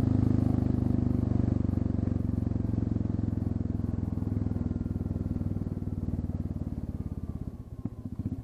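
Royal Enfield Classic 350's single-cylinder engine running at steady revs through an exhaust with its end muffler removed, a low, evenly pulsing exhaust note. It grows quieter near the end.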